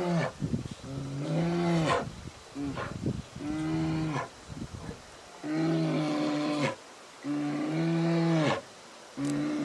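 An animal calling again and again: a string of pitched calls, each about a second long, with short pauses between them.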